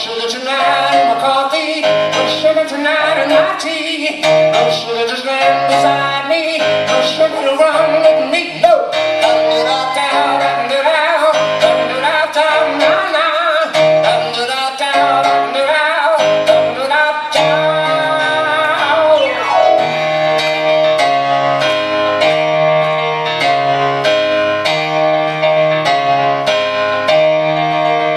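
Live rock band music led by piano, with keyboard and guitar, in a passage without transcribed lyrics.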